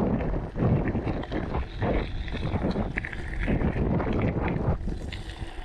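Wind buffeting the microphone over a low rumble and scattered rattles from a mountain bike riding along a trail.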